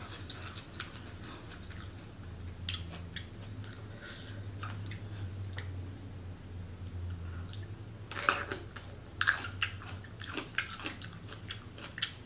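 Close-miked chewing and biting of a sauce-covered seafood boil, with irregular wet clicks and short crunches, busiest in the last few seconds. A faint steady low hum runs underneath.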